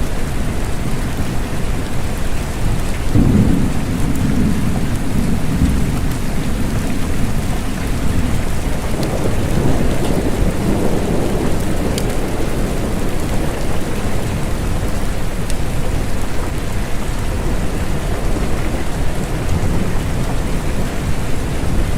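Steady rain with low rolls of thunder, one beginning a few seconds in and another swelling about halfway through.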